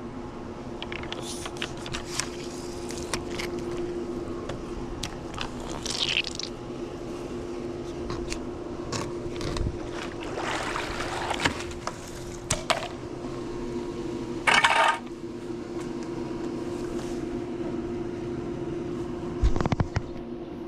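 Water splashing and draining out of a swimming pool vacuum hose as it is handled, with scattered clicks and knocks and a brief louder gush about fifteen seconds in, over the steady hum of the running pool pump.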